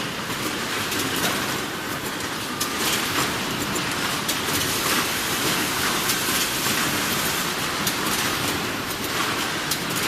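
Ear lug spot welding machine for metal pails running: a steady metallic rattle from the vibratory bowl feeder shaking the lugs, with occasional sharp clicks.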